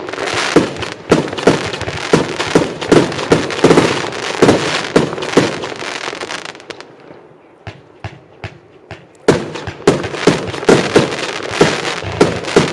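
Firework compound cake firing shot after shot, about two a second, heard from some 85 m away, with a crackling haze between the shots. Around the middle the firing thins to a few scattered pops, then picks up again densely about nine seconds in.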